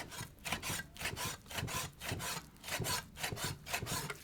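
Rhythmic scraping or rasping strokes, about two to three a second, of something rough being worked back and forth by hand.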